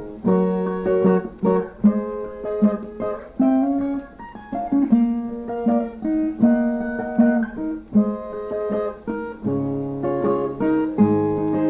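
Brazilian viola playing an instrumental passage between sung verses: a plucked melody of single notes, with deeper bass notes joining near the end.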